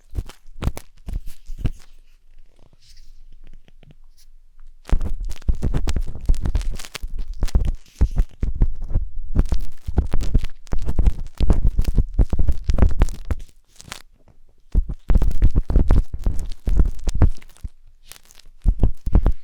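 Wooden skewer scraping and rubbing inside the silicone ear of a 3Dio binaural microphone: close, crackly contact noise with a deep rumble. Scattered light taps for the first few seconds, then dense scraping strokes, with a brief pause about three-quarters through.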